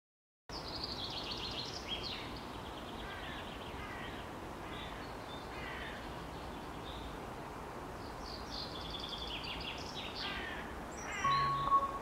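Birds singing, with rapid trilled and chirping phrases over a steady outdoor background hiss. Near the end, chiming mallet-percussion notes of music begin.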